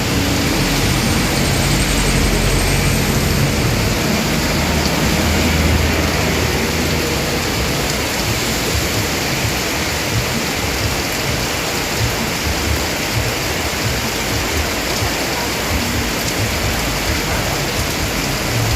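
Heavy rain pouring steadily, with a low rumble underneath during roughly the first six seconds.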